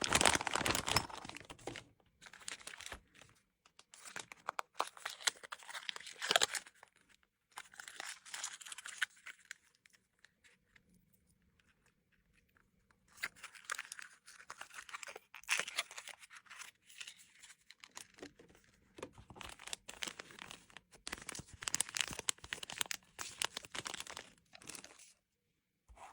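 Plastic packaging and bags crinkling and rustling as gift items are handled and packed, in irregular bursts with a few seconds' pause midway.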